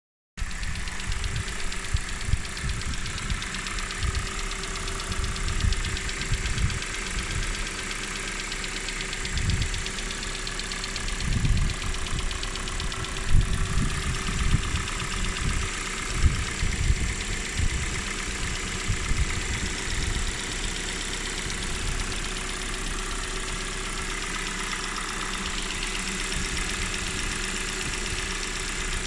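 Kia Cerato's Nu 2.0-litre MPi four-cylinder engine idling with a fast, steady ticking-clicking, the noise the owner reports on start-up. Irregular low thumps come and go, heaviest around the middle.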